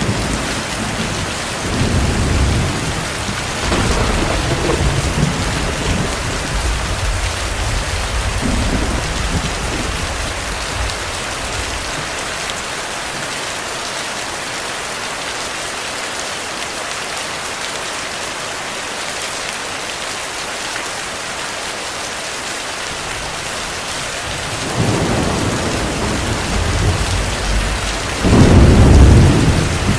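Heavy rain falling steadily, with rolling thunder. The rumble fades away over the first ten seconds or so, returns about 25 seconds in, and is loudest near the end.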